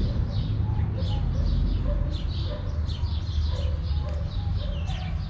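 Birds chirping over and over in quick high notes, with some lower short calls, over a steady low rumble.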